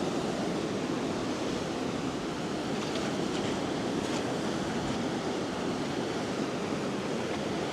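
Sea waves washing in steadily on the shore at the incoming tide, with some wind on the microphone.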